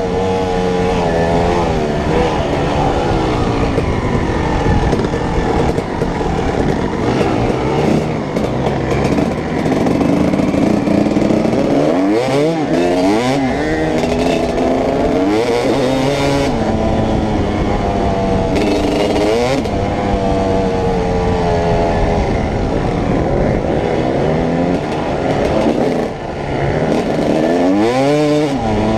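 Dirt bike engines running hard under way, the pitch climbing and dropping several times as the throttle is opened and the bike shifts through the gears, with rough rushing noise over the top.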